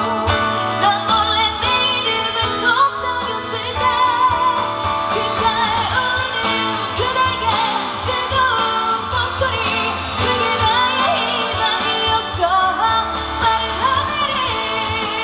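Live band playing a pop-rock ballad through a stage sound system, guitars under a held, wavering lead melody line with vibrato.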